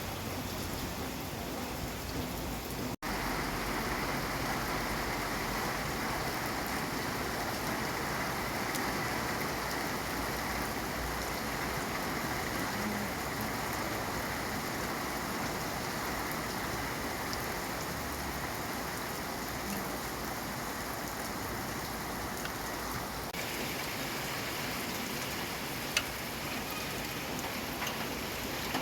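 Rain falling steadily, an even hiss of many drops, with a momentary cut-out about three seconds in and a single sharp tick a couple of seconds before the end.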